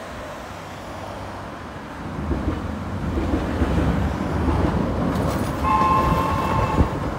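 1938 ex-London Underground tube train (Island Line Class 483 electric unit) running over a steel girder bridge: a rumble that swells about two seconds in and stays loud as it passes. A high steady tone sounds for about a second near the end.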